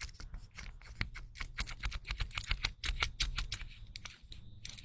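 A handheld fidget toy being worked with the fingers: a fast, irregular run of small sharp clicks.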